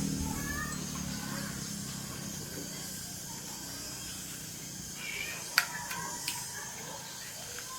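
A low hum fades away over the first two seconds. It leaves a rural background with birds chirping and two sharp clicks about five and a half and six seconds in.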